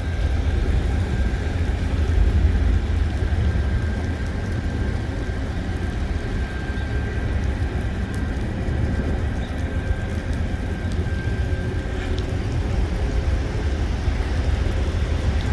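Steady low outdoor rumble, with a faint steady high whine that fades out about twelve seconds in.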